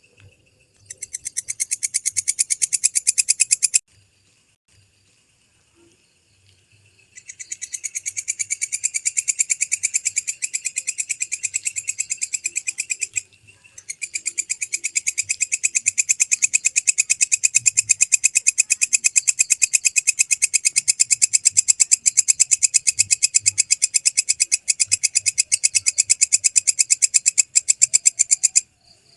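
Walang kecek (belalang kecek) bush cricket, a Mecopoda katydid, calling in three long bouts of rapid, even pulses. Each bout swells up quickly and stops abruptly, with short pauses between them.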